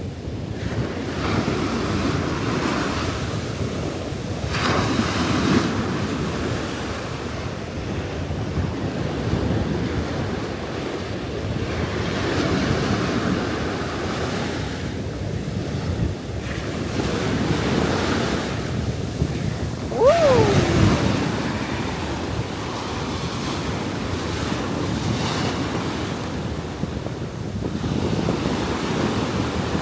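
Ocean surf breaking on the beach in slow surges every few seconds, with wind buffeting the microphone. About twenty seconds in, a single short falling cry sounds once.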